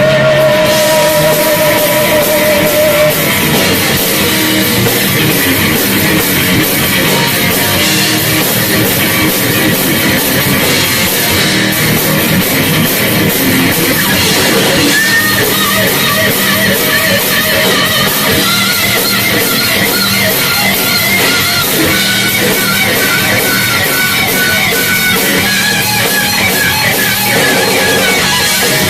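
Live heavy metal band playing loud, with electric guitars and a drum kit.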